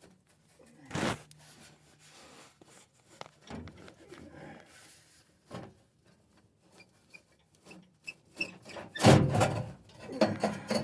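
Scattered metal scrapes, rubs and knocks as a 1990 Ford Econoline E350's exhaust pipe is worked apart by hand, with a louder burst of clattering and scraping about nine seconds in.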